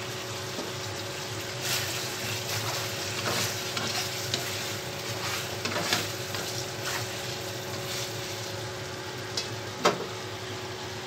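Chicken and potato pieces sizzling in a stainless-steel frying pan, stirred with a wooden spatula for several seconds from about two seconds in. A single sharp knock comes near the end.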